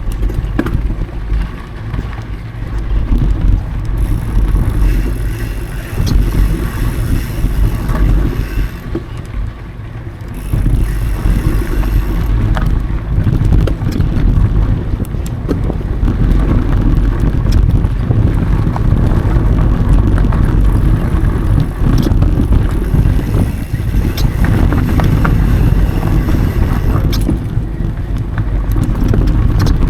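Mountain bike riding over dry dirt singletrack: a loud, steady low rumble of wind buffeting the action camera's microphone and the tyres rolling, with scattered small clicks and rattles from the bike.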